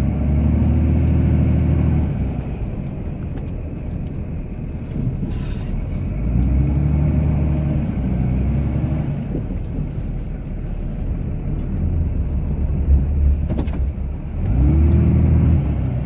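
Cummins inline-six turbo-diesel of a Ram pickup pushing snow with a plow, revving up and easing off three times: near the start, about six seconds in, and near the end. A single sharp knock comes about thirteen seconds in.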